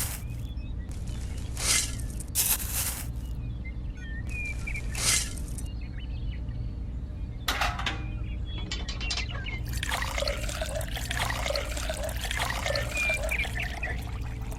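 Water spraying in several short hissy bursts, then pouring and splashing steadily for the last few seconds, over a steady low hum.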